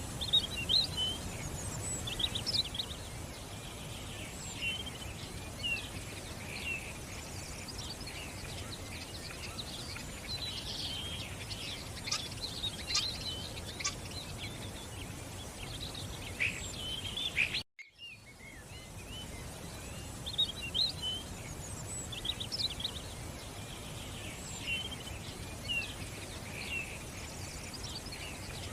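Many small birds chirping and twittering over a steady background rush. The sound cuts out for a moment about two-thirds of the way through, then the chirping resumes.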